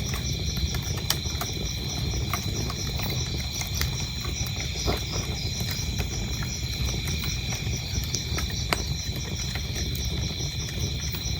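Wood fire burning in a fireplace: a low rumble with scattered sharp crackles and pops, over steady high-pitched cricket chirping.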